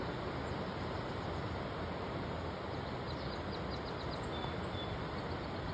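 Steady rush of the Green River running high and fast. A small bird gives a quick run of high chirps about three seconds in, and a short high note a second later.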